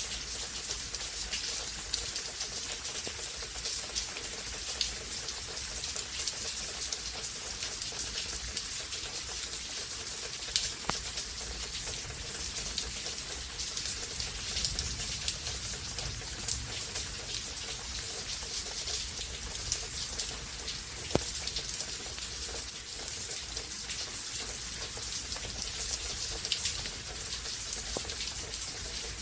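Steady rain falling in a storm, a dense patter of individual drops with an occasional sharper, louder drop hit.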